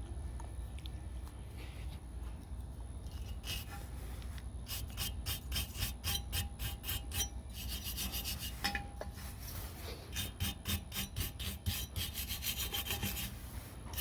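Rapid back-and-forth scrubbing strokes on the metal of a vintage gasoline blow torch as it is cleaned by hand, a run of quick rasping rubs starting about three seconds in.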